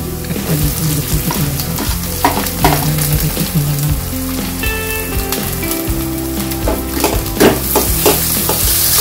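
Chopped onions and garlic sizzling in hot oil in a kadai, stirred with a perforated metal ladle that scrapes and clicks against the pan. The clicks are loudest about seven and a half seconds in.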